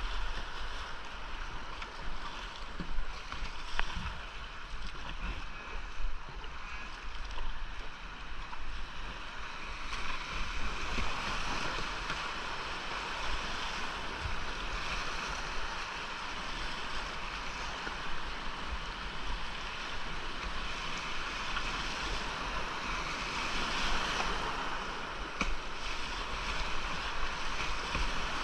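Whitewater of a creek rapid rushing around a kayak, a steady hiss of moving water that grows louder about ten seconds in. A few brief knocks or splashes stand out in the first few seconds.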